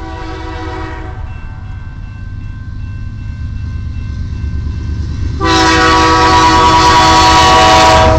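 Diesel locomotive air horn on an approaching CN freight train: a short blast at the start, then a long, much louder blast beginning about five and a half seconds in. Under it the low rumble of the locomotive grows steadily louder as the train nears.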